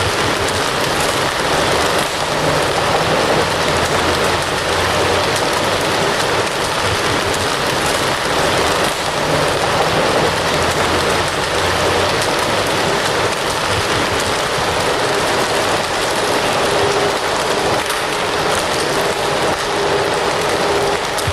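Fire crackling steadily: a dense, even hiss with small scattered pops.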